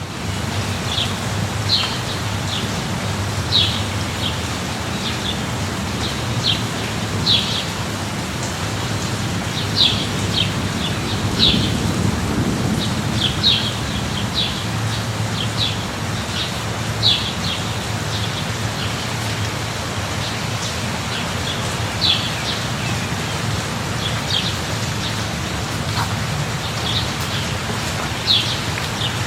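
Steady rain falling, with a low rumble underneath that swells a little about halfway through. Short, high bird chirps come at irregular intervals throughout.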